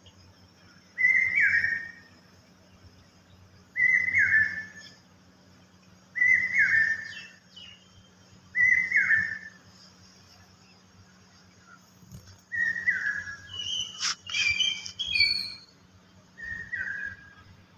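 A bird whistling a short slurred call, repeated six times at intervals of two to four seconds. About fourteen seconds in there is a sharp click and a brief cluster of higher chirps.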